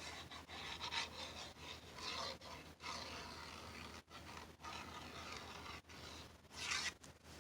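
Faint rubbing and rustling of paper being handled and pressed down by hand, with louder swells about two seconds in and near the end.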